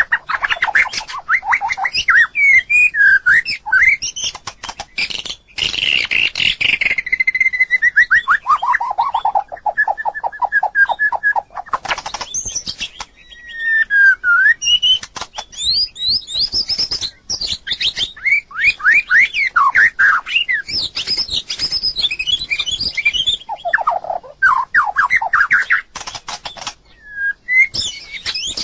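White-rumped shama singing a loud, fast, varied song of whistled phrases, quick pitch glides and rapid trills, broken by sharp clicking notes. About six seconds in, one long run of rapid notes falls steadily in pitch and then holds as a fast trill.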